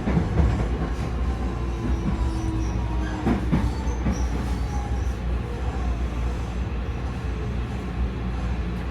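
Electric commuter train running along the track: a steady low rumble with faint whining tones, and a few short knocks from the wheels and rail joints a little over three seconds in.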